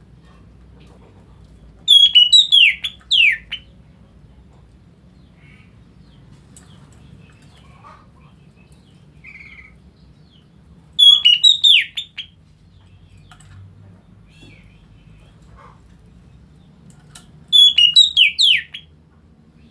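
A black pet bird calling loudly, three times, about eight seconds apart; each call is a quick run of several downward-sweeping whistled notes lasting about a second and a half.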